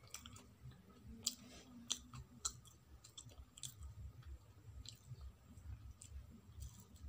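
Close-miked mouth sounds of biting and chewing a fried pakoda fritter: irregular sharp clicks and small crunches, several seconds apart to about two a second.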